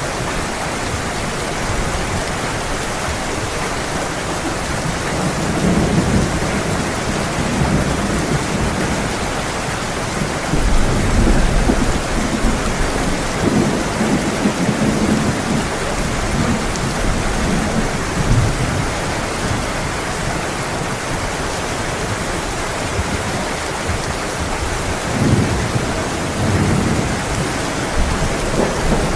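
Heavy rain falling steadily, with rolls of thunder rumbling through it several times, loudest about a third of the way in.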